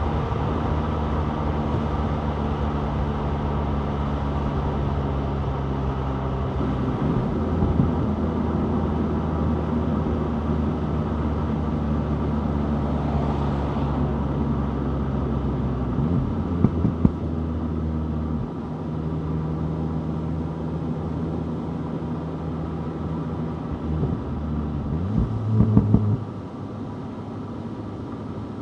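2025 VW Golf GTI 8.5's turbocharged 2.0-litre four-cylinder engine running while driving, its note shifting a few times as the revs change. There are brief sharp knocks about two-thirds of the way in and near the end.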